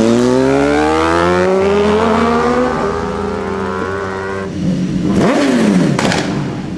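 Sport motorcycle engine accelerating, its pitch climbing steadily for about four seconds, then a quick rev blip that rises and falls near the end.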